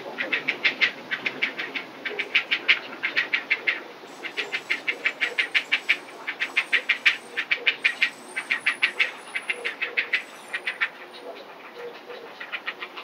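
Eastern spot-billed ducks calling in quick runs of short, rapid calls, about eight a second, with brief pauses between runs: begging calls for food.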